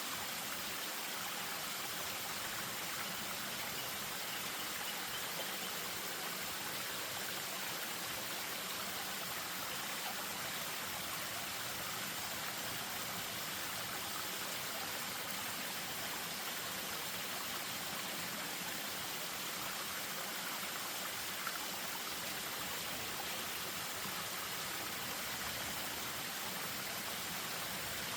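Spring-fed stream splashing steadily over a small waterfall, an even rush of running water.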